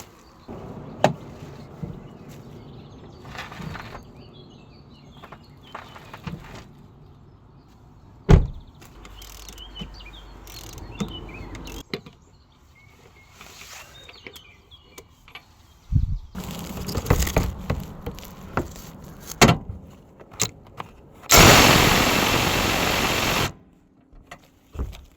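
Car repair work noises: scattered knocks, clunks and handling of tools and parts, with one sharp knock about a third of the way in. Near the end comes a loud, steady rushing noise of about two seconds that cuts off suddenly.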